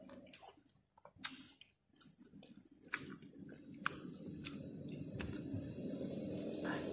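Close, wet chewing of juicy fruit pieces coated in rujak sauce, with scattered sharp lip smacks and mouth clicks. A low, steady rumble swells up in the second half.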